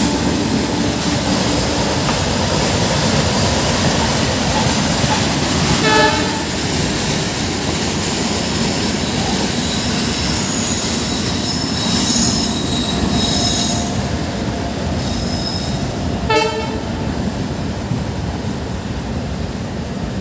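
Passenger train running through a station: a steady rumble and rattle of wheels on track. Thin high squealing tones come and go midway, and there are two brief sharp toots about six and sixteen seconds in.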